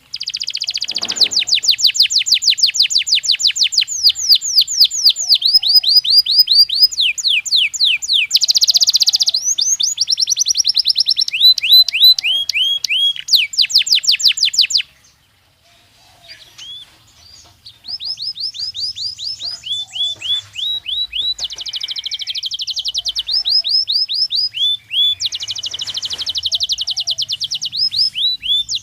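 Belgian canary singing: fast rolling trills of rapidly repeated high notes, switching to a new trill every second or two. It stops for about three seconds around the middle, then starts again.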